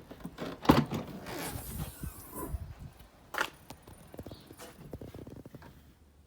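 A car's tailgate being handled and opened: a series of clicks and knocks, with a sharp knock under a second in and another at about three and a half seconds.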